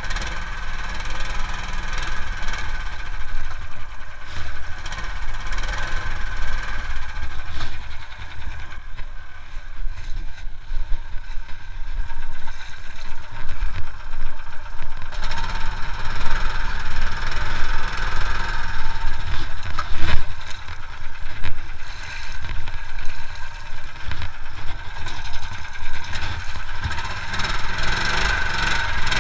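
Engine of an IRBIS Mukhtar off-road minibike running unevenly with a steady low rumble while the bike lies tipped over in swamp water, with a few short knocks along the way.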